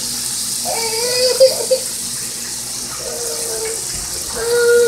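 Chicken pieces deep-frying in hot oil in a pot, a steady sizzling hiss as the pieces are turned and lifted with tongs.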